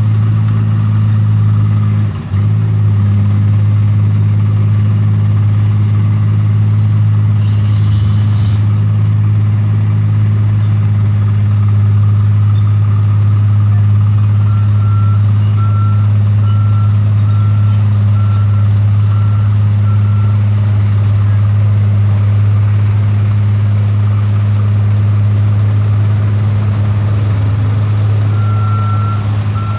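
Diesel dump truck engine running steadily, with its reversing alarm beeping about once a second from around halfway and again near the end. A short hiss about eight seconds in.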